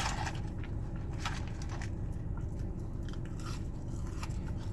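Close-up chewing of fast food, with a handful of short, crisp crunches scattered through, over a steady low hum.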